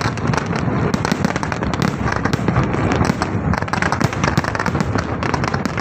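Fireworks display: a dense, continuous run of rapid crackles and pops from many overlapping bursts.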